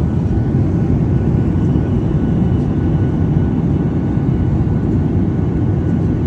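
Steady engine and airflow noise inside a jet airliner's cabin in flight: a deep, even rumble with faint steady whines above it.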